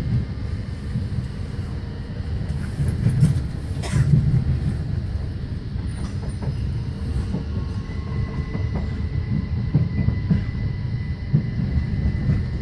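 Passenger train running along the track, heard from inside the carriage: a steady low rumble of the wheels on the rails, with a sharp knock about four seconds in. A thin, high, steady tone comes in about two-thirds of the way through.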